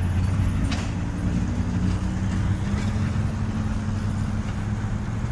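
Motor vehicle engine running nearby with a steady low hum, its pitch rising slightly about a second in and then holding: road traffic at an intersection.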